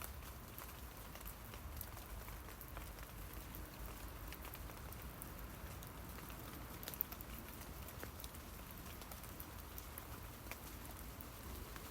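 Rain falling on tree leaves: a steady soft hiss with scattered drop ticks, one sharper tick about seven seconds in.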